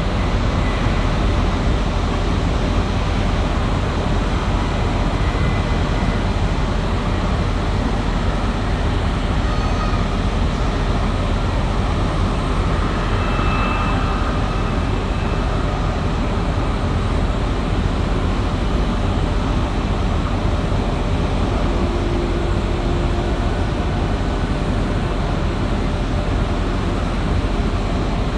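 Steady jet engine noise from a four-engined Airbus A340, an even rushing sound with a strong low rumble that neither builds nor fades.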